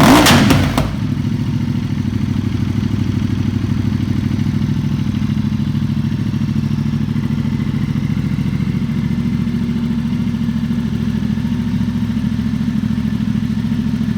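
Ducati XDiavel Dark's 1262 cc Testastretta L-twin engine through a full Termignoni exhaust with the baffles out. A rev blip dies away in the first second, then the engine settles into a steady idle with an even, rapid pulse.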